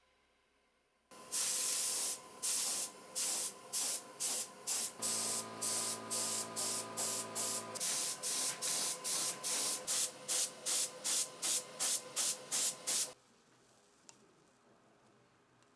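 Paint spray hissing in short, repeated bursts, about two a second, for some twelve seconds; the bursts grow shorter and quicker, then stop suddenly. A low hum joins for a few seconds in the middle.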